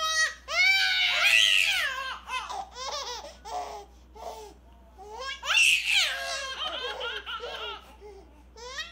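A baby laughing in high squealing peals, in two main bouts about a second in and about five and a half seconds in, with smaller giggles between and near the end.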